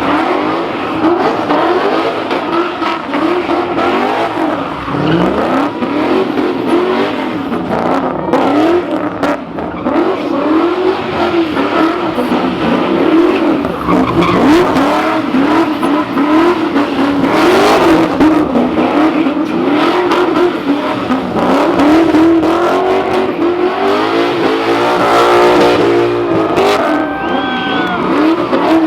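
A car doing a burnout: the engine is held at high revs, its pitch swinging up and down repeatedly, while the spinning tyres squeal.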